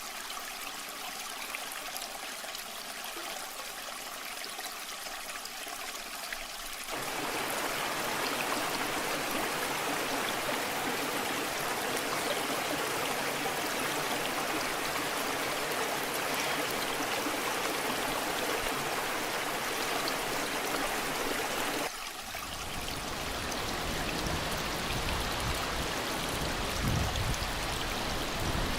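Steady flowing water of a waterfall, an even hiss. About a quarter of the way in it suddenly turns louder and brighter, and near the end it changes again, gaining a deeper rumble.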